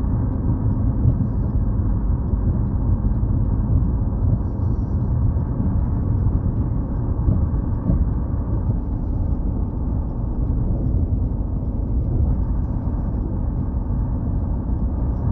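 Steady low road rumble inside a moving car: tyre and engine noise at cruising speed, even throughout.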